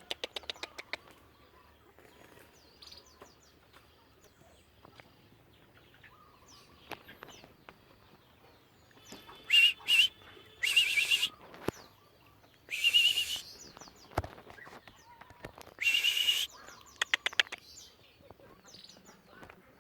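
Oriental magpie-robin (kacer) calling with short chirps and clicks, and several loud harsh rasping calls in the middle, interspersed with wing flutters.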